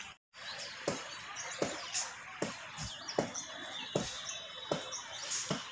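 Small birds chirping now and then over a steady outdoor background, with a soft tap repeating about every 0.8 seconds.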